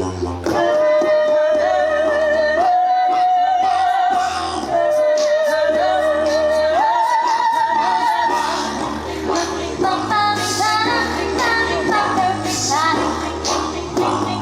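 Small a cappella choir singing. A high female lead holds long notes with vibrato and steps up and down between them over a low, pulsing bass part.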